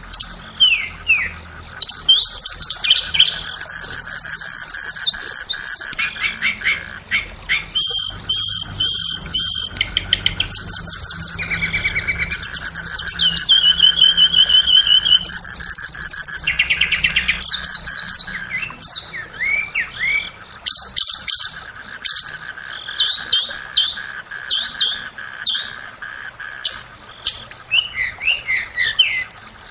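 Tledekan songbird singing a long, varied song of quick slurred whistles, chirps and fast trills, with a steady faint hum underneath, of the kind used as master or lure audio to bring a tledekan into song.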